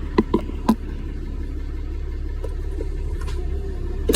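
Steady low rumble of a Ram 2500 pickup truck running, with three short sharp knocks in the first second and another near the end.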